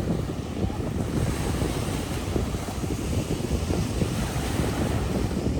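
Wind-driven waves breaking steadily on a lake shore, with strong wind buffeting the microphone.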